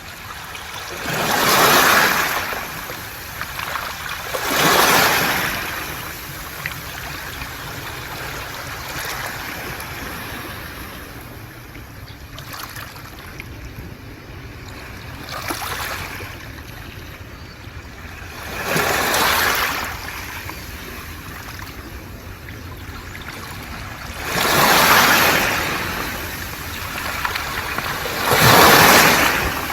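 Waves on a beach of round pebbles (mongdol), surging up and washing back over the stones in about five loud swells, with a steady wash of surf between them.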